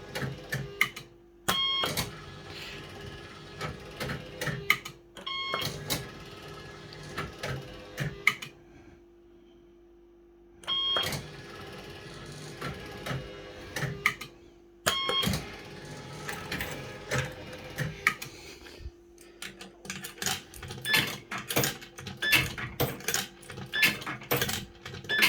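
Firecracker fruit machine in play: short electronic bleep tunes sound several times over a steady hum, with clicking from the reels and mechanism that gets rapid near the end. The reel deck has a suspected sensor fault, so not all wins are recognised.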